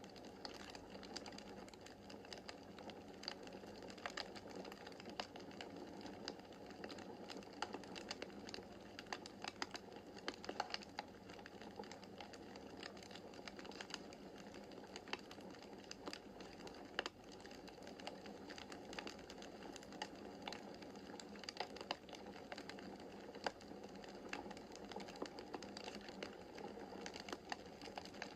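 Wood fire crackling in a fireplace: irregular snaps and pops, several a second, over a steady low rush of the flames.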